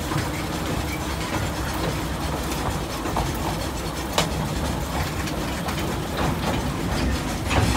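Narrow gauge train running along the track, heard from aboard: a steady rumble of the carriage with scattered clicks and knocks, one sharper about four seconds in and more near the end.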